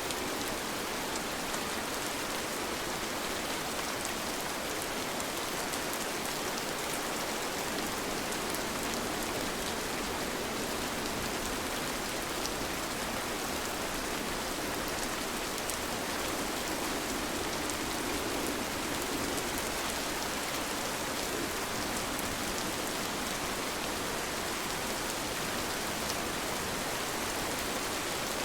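Steady rain falling: an even hiss of rain with scattered sharp drops ticking through it.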